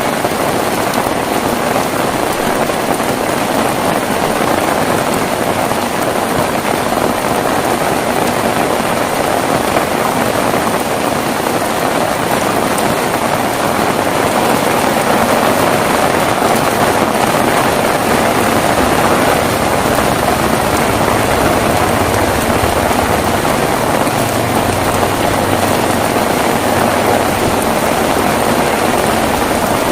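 Heavy rain falling steadily, an even hiss of many drops that swells a little about halfway through. A faint low rumble runs underneath for several seconds in the second half.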